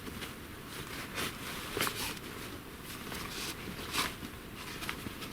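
Scattered rustling and a few light knocks from a person moving about and handling gear on the forest floor, with sharper clicks about a second in, near two seconds in, and at about four seconds.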